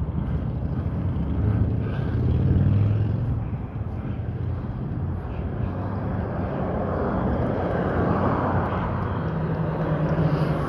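Road traffic: cars driving past, their rumble swelling twice as they go by.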